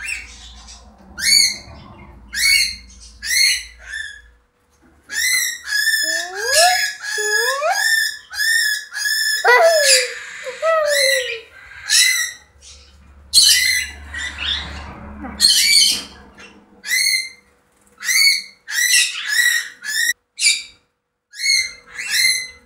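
Cage birds calling: a string of short, sharp chirps at roughly one a second, with a run of rising whistles in the middle.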